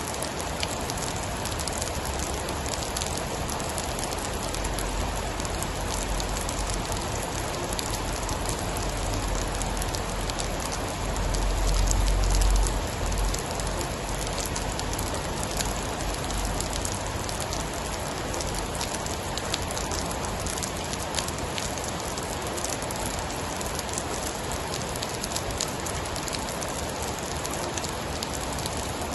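Steady rain with fine drips and patters, over which a low rumble of distant thunder builds and peaks about halfway through before fading.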